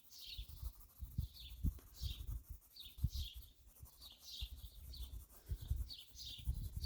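Small birds chirping over and over in short, high, falling notes, several a second. Low irregular bumps and rumble sound underneath.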